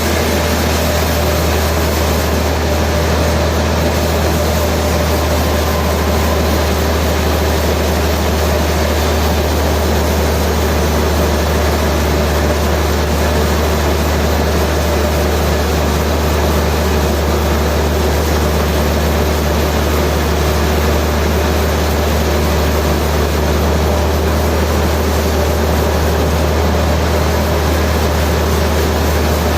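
Sawmill machinery running steadily: a deep, even hum with a few steady tones above it, with no cutting strokes or changes in speed.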